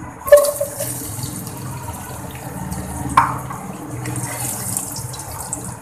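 Okra pods dropped into hot cooking oil in a pot, sizzling steadily from about a third of a second in. There is a knock as they go in and another about three seconds in.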